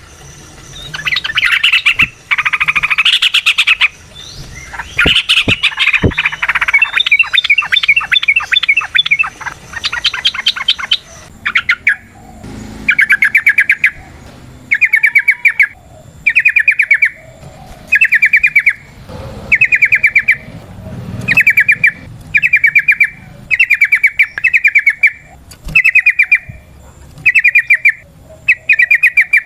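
Yellow-vented bulbul (trucukan) singing, starting with a varied, overlapping burst of chattering, rapid phrases. About halfway through, this gives way to a string of short, fast trilled phrases repeated roughly once a second.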